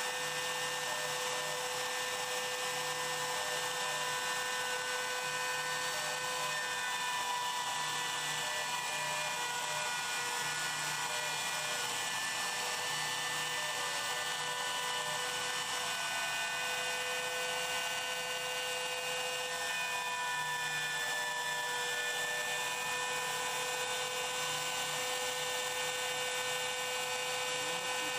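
CNC machine running with a steady, high-pitched whine made of several tones. The tones shift slightly in pitch now and then.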